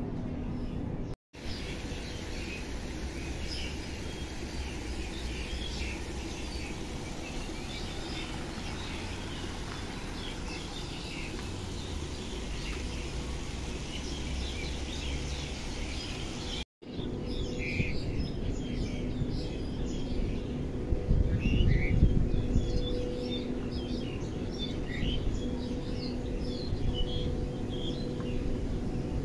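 Small birds chirping and twittering over a steady outdoor background hum. A low rumble swells briefly about two-thirds of the way through, and the sound cuts out for a moment twice.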